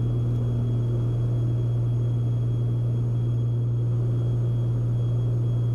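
Steady cabin drone of a Beechcraft Baron B55's twin piston engines and propellers, set to 2400 RPM in the climb.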